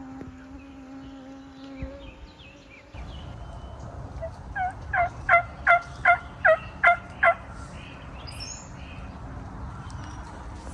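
Turkey yelping: a series of about eight evenly spaced, loud two-toned yelps, a little over two a second, starting about four seconds in.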